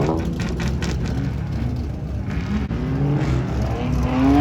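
Car engine running and revving, its pitch rising steadily over the last couple of seconds.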